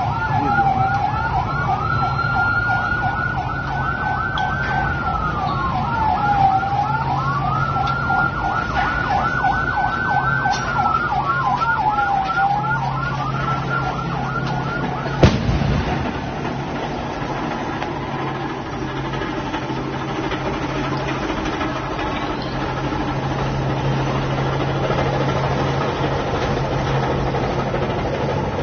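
Emergency vehicle siren sounding a slow rising-and-falling wail with a fast warble over it. It cuts off with a sharp click about halfway through, leaving the steady rumble of a heavy engine running.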